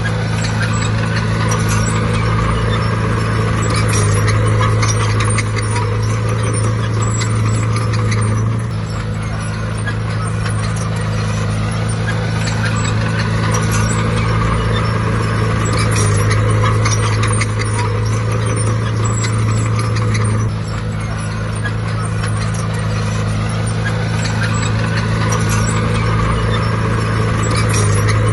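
Heavy diesel engine of a bulldozer running steadily under load, its level stepping up and down every several seconds as the machine works.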